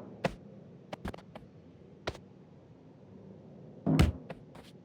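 A handful of short, light knocks and taps scattered over a quiet background, the loudest a little before the end.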